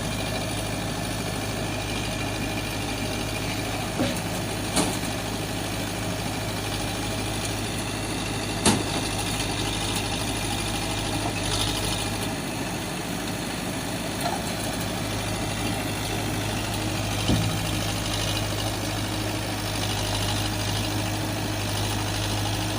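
Vehicle engine idling steadily with a low, even hum, broken by a few short knocks.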